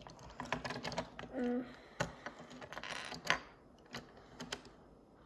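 Small plastic toy pieces being handled and fitted together: irregular light clicks and taps, with sharper clicks about two seconds in and again a little after three seconds.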